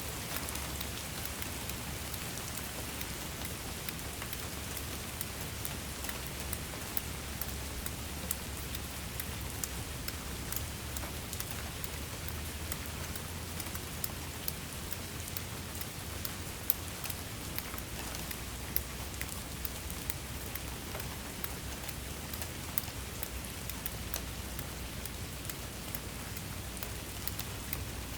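Steady rain falling, with a dense patter of individual drops ticking sharply on a surface over an even hiss and a low rumble.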